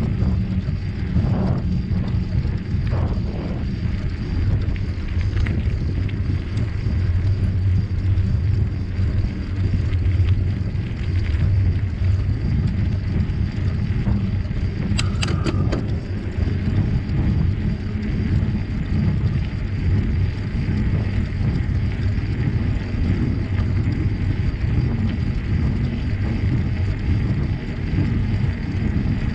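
Steady low rumble of riding a bicycle: tyre noise and wind buffeting the microphone. About halfway through there is a brief cluster of sharp clicks.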